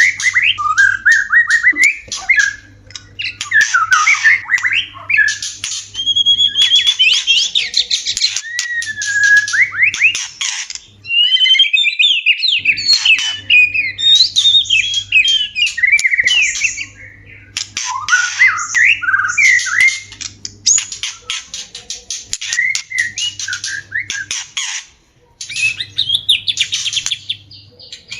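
White-rumped shamas calling in courtship: varied whistled phrases that glide up and down, mixed with harsh rasping chatter, in bursts broken by short pauses.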